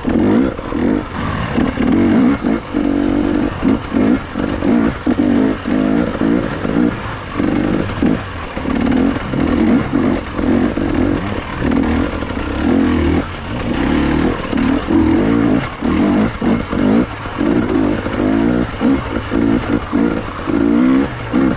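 KTM two-stroke enduro motorcycle engine revving hard off-road, the throttle opened and shut over and over so the note surges and drops every second or so.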